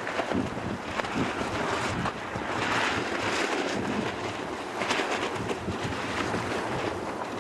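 Strong wind rushing over the microphone, with waves and spray splashing on open water.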